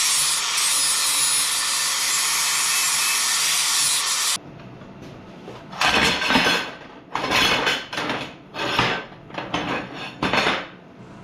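Scrap steel pieces being cleaned up for welding: a power tool runs steadily with a hissing grind, then stops abruptly about four seconds in. A series of rasping hand strokes follows, about one a second, metal being filed or rubbed clean.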